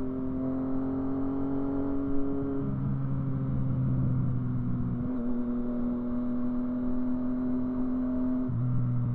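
Yamaha FZ-09's three-cylinder engine running at a steady pitch, its tone shifting a little three times over the stretch.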